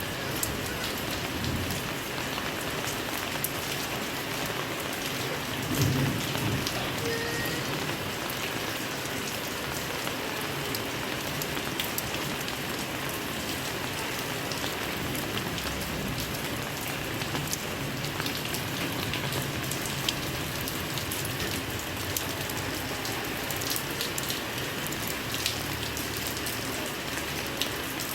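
Heavy rain falling steadily, with scattered sharp drop impacts and a brief low rumble about six seconds in.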